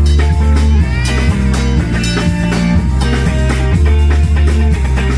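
Live band playing an instrumental passage: a walking bass line under drums, with guitar sliding up through a phrase about a second in.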